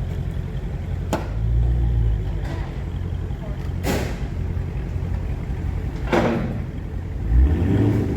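2018 Dodge Charger Daytona 392's 6.4-litre HEMI V8 running with its mid-mufflers removed: a steady low exhaust rumble that swells about a second and a half in and again near the end. A few sharp noises cut in over it.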